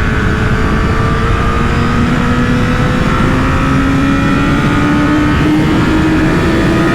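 Honda CBR1000RR Fireblade's 998 cc inline-four, through a LeoVince aftermarket exhaust, pulling hard under part throttle in one gear, its note rising steadily as the bike gathers speed. Heavy wind rumble on the microphone runs underneath.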